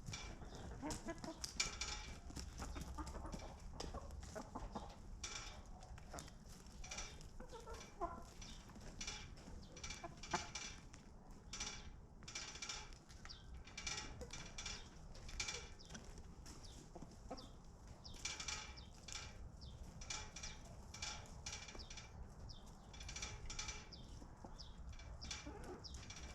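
Chickens clucking: many short calls in quick succession.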